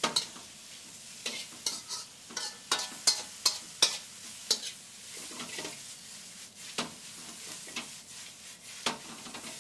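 Vegetables sizzling in hot peanut oil in a wok, with a spoon scraping and knocking against the pan in irregular strokes as they are stir-fried.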